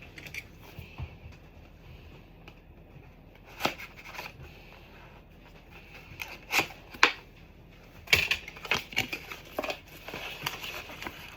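Packaging and parts of a Nespresso coffee machine being handled during unboxing: a few separate sharp clicks and knocks, then a quicker run of rustling and clicking near the end.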